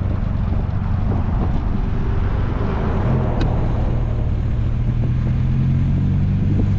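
Classic car's engine running under way with road noise, heard from inside the car; the engine note steps up about three seconds in and holds there.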